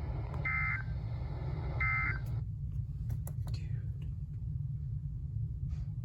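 Weather radio sending two short, identical warbling data bursts about a second apart, the last of the three-burst SAME/EAS end-of-message code that closes the watch alert, over a steady low hum.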